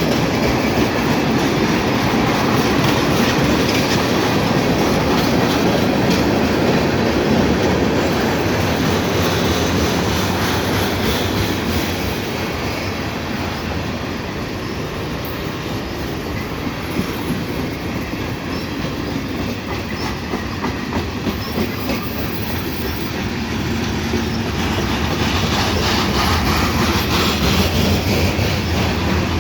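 Freight cars of a long CN freight train rolling past at speed, wheels clicking over the rail joints in a continuous loud rumble. A low steady drone builds near the end.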